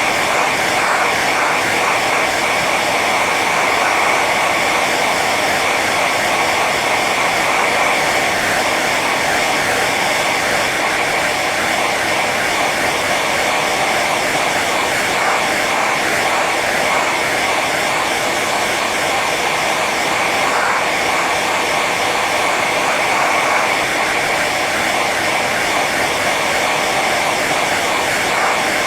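Hair dryer running on its high setting: a steady rush of blown air with a faint whine from the fan motor, unchanging throughout.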